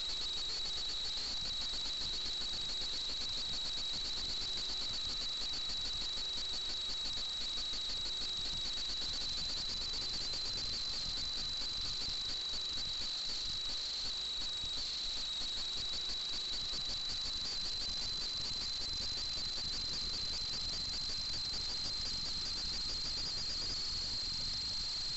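FPV quadcopter's motors and propellers giving a steady, high-pitched whine over a noisy rush, heard from the onboard camera. The pitch shifts slightly a few times.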